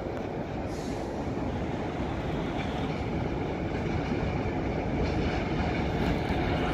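A train running through a railway station, a steady rumble of wheels on the rails that grows slowly louder.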